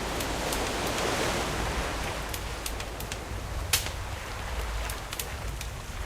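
Campfire crackling with scattered sharp pops, the loudest about three and a half seconds in, over the wash of sea waves that swells in the first second or two and then eases.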